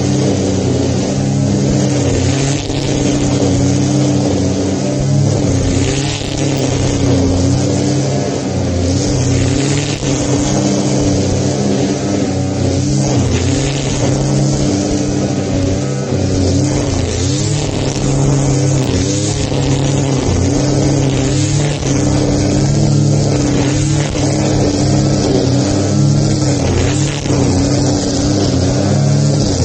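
Petrol grass cutter's small engine running continuously at working speed, its pitch rising and dipping slightly.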